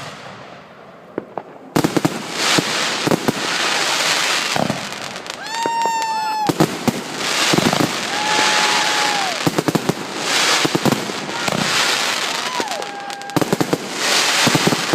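A dense fireworks finale barrage: after about two seconds it breaks into continuous crackling and rapid sharp bangs, with several whistling fireworks shrieking through it.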